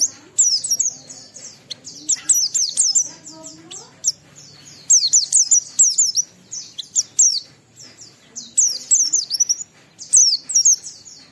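Pleci (white-eye) singing phrase after phrase of rapid, high-pitched twittering, each note sliding downward, with short pauses between the phrases.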